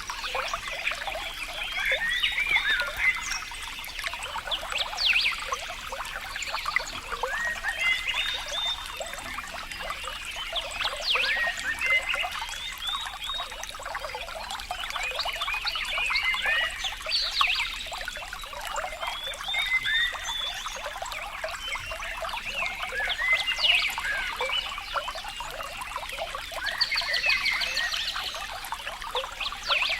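Water trickling and bubbling without a break, with many short, high chirping calls over it.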